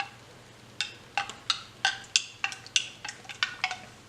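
A utensil stirring a drink in a cup, clinking against the side about three times a second to dissolve instant coffee crystals floating on top.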